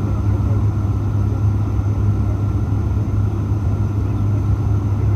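Steady low rumble of an airliner on its landing approach: engine and airflow noise, unchanging throughout.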